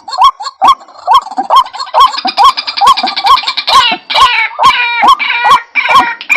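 White-breasted waterhen calling: a steady run of short hooked notes, about two to three a second, joined about two seconds in by a fast high trill and then by harsher, layered notes.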